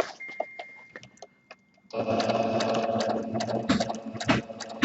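Domestic sewing machine free-motion stitching through a felt-backed canvas: a few light clicks, then about two seconds in the machine starts and runs steadily at a rapid stitch rate, with a couple of louder knocks near the end.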